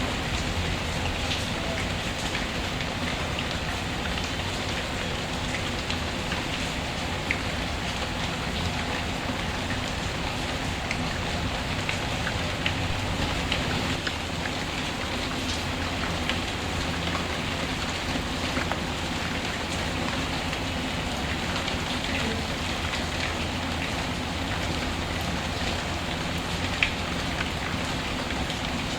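Steady rain, with a few sharp pops and crackles from a wood fire in a fireplace, the loudest about a quarter, halfway and near the end.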